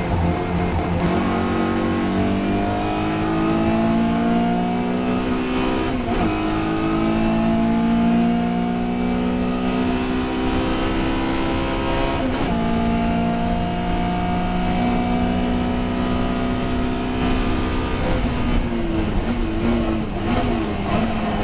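Touring race car's engine under hard acceleration, its pitch climbing steadily and dropping sharply at each upshift, roughly every six seconds. Near the end the engine note turns choppy, its pitch jumping up and down.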